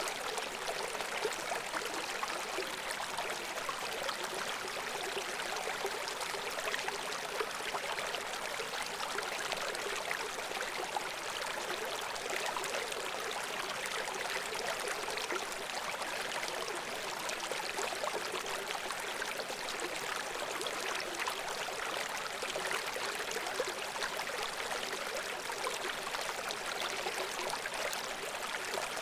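Shallow brook babbling and trickling over stones, a steady splashing flow.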